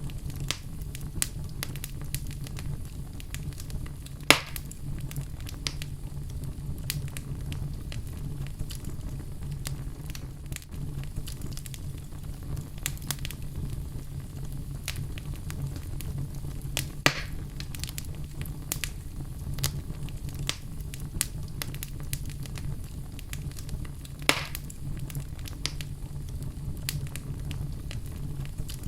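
Wood fire burning in a fireplace: a steady low rumble of the flames with frequent scattered crackles, and three louder pops about four, seventeen and twenty-four seconds in.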